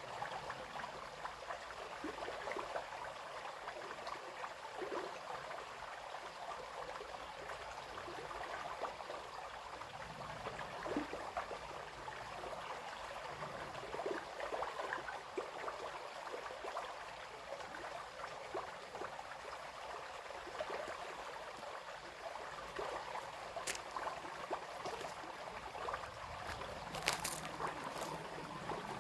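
Small brook babbling and trickling, a steady splashing flow. A few sharp clicks near the end.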